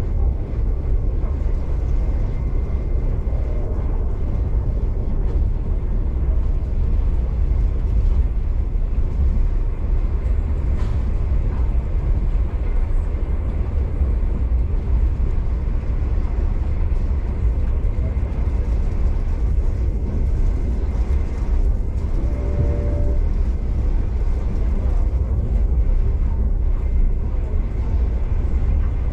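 V/Line passenger train running at speed: a steady, loud low rumble of wheels and running gear on the rails. A short higher tone with harmonics is heard about three quarters of the way through.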